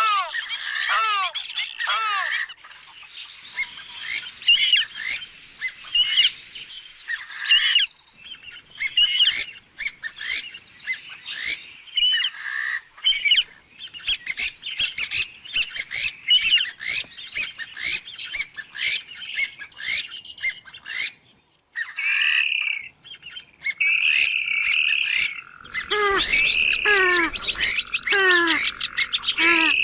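Purple swamphens calling: a dense, continuous chatter of many overlapping calls, with rapid squeaky notes that slide down in pitch. About 26 seconds in, a steady high whine and lower-pitched calls join in.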